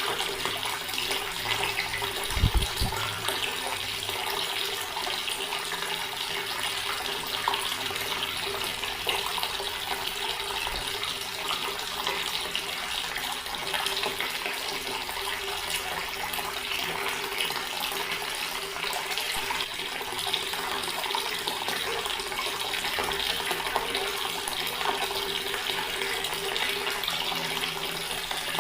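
Water running steadily from a tap into a stone basin, an even splashing with a faint steady low tone underneath. A brief low thump about two and a half seconds in.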